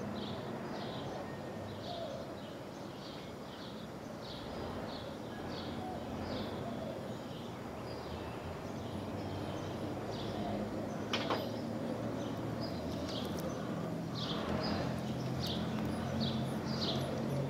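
A bird chirping over and over, about two short high chirps a second, over steady background noise. A low steady hum comes in near the end.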